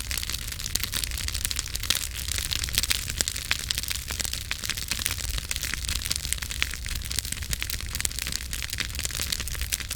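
Campfire burning, the wood crackling and popping many times a second over a steady hiss, with a low rumble underneath.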